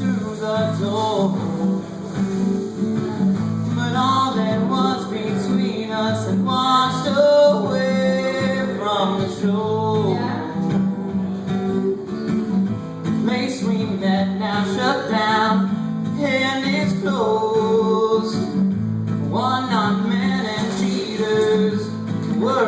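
Acoustic guitar strummed under a voice singing a ballad melody.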